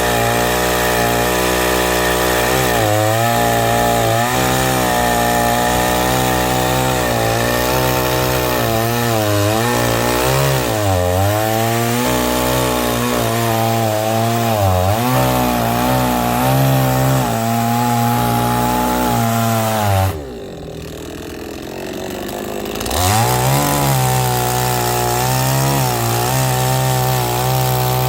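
Chainsaw running at high revs, cutting firewood logs, its pitch sagging now and then under load. About two-thirds of the way in it drops to idle for a couple of seconds, then revs back up and keeps cutting.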